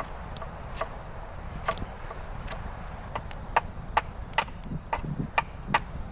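Repeated chopping strikes on wood, sharp knocks at about two a second that come more quickly after halfway, over a low rumble of wind.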